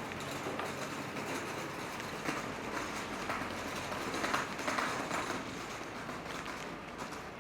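Rainy city street ambience: a steady wash of noise, with a few louder swells near the middle.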